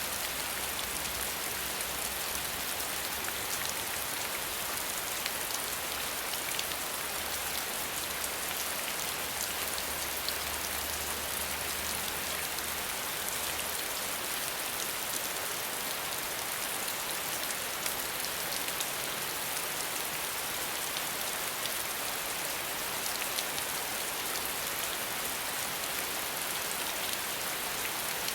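Steady rain without thunder, an even dense patter of drops. A faint low rumble underneath stops about halfway through.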